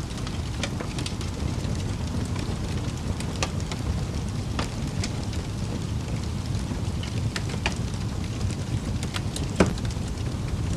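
Wood fire burning in a fireplace: a steady low rumble of flames with scattered sharp crackles, and one louder pop near the end.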